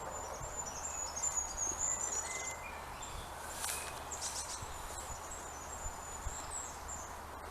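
Birds singing high, warbling phrases over a steady outdoor background hiss.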